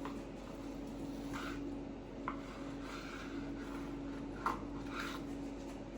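Knife slicing through smoked brisket on a cutting board: a few short scraping strokes and a light knock, over a steady low hum.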